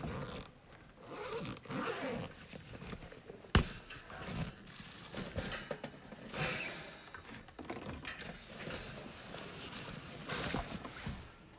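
Handling noise: irregular rustling and scraping strokes, with one sharp knock about three and a half seconds in.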